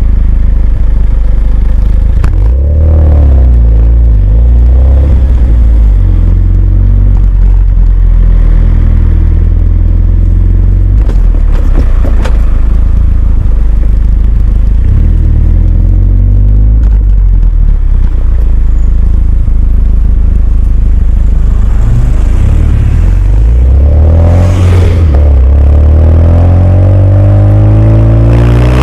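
Renault Mégane 2 RS's 2.0-litre turbo four-cylinder breathing through a Milltek cat-back exhaust, driving under load with a deep exhaust note. The engine climbs through the revs a few times, most steeply near the end.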